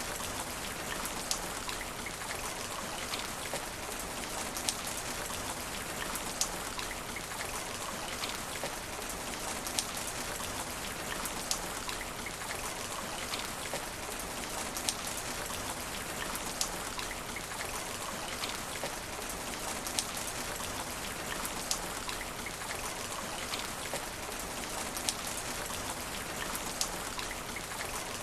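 Steady rain falling on asphalt, an even hiss with frequent sharp individual drop impacts.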